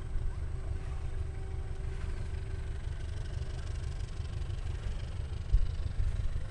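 Distant diesel-hauled passenger train running along the track: a steady low rumble with a faint engine hum that fades about three seconds in.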